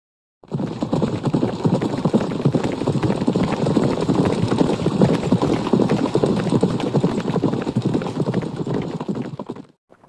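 A horse galloping: a dense, fast run of hoofbeats that starts about half a second in and cuts off just before the end.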